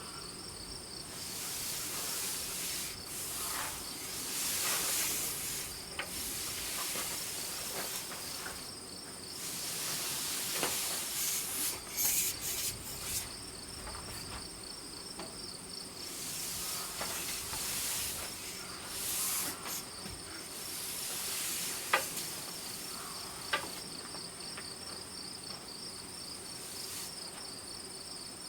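Crickets chirping steadily, with repeated bursts of scraping or rubbing and a couple of sharp clicks.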